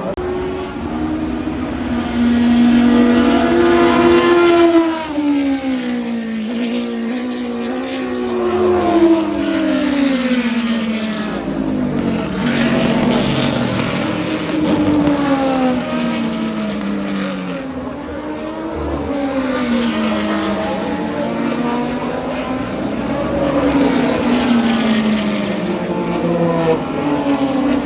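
Historic race cars passing one after another at speed. Each engine note holds and then drops in pitch as the car goes by.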